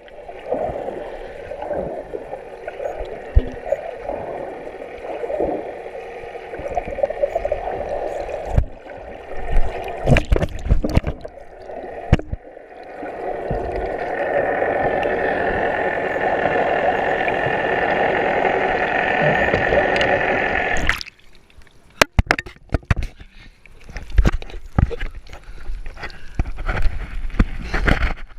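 Motorboat running on the sea with rushing water, a steady noisy drone that stops abruptly about two-thirds of the way through. It is followed by scattered clicks and knocks.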